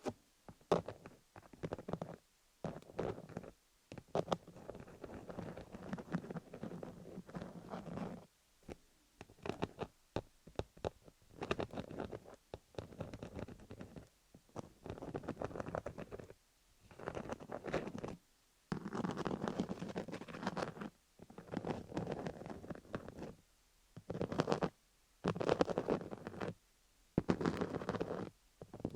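Fingernails scratching over a dummy-head microphone covered in cubic-zirconia rhinestones, in repeated strokes of half a second to two seconds with short pauses between.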